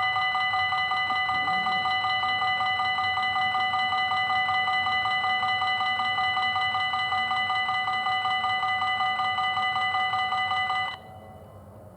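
Belgian level crossing warning bell ringing: an electronic ringing tone repeating fast and evenly, warning that a train is approaching. It cuts off suddenly near the end.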